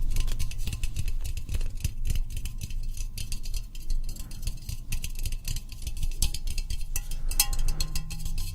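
Dense, irregular light tapping and clicking on hard objects, many small sharp taps a second with soft low knocks among them.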